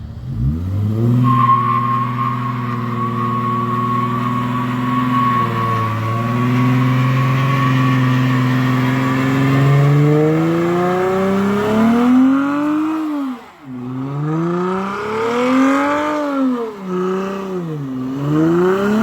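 A car doing a burnout. The engine revs up quickly and holds steady while the tires squeal with a steady high tone for several seconds. Then the revs climb and fall away twice in long swells.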